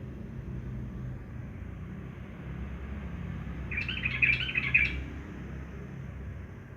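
Straw-headed bulbul (cucak rowo) singing one short, quick warbling phrase of a little over a second, a few seconds in, over a low steady rumble.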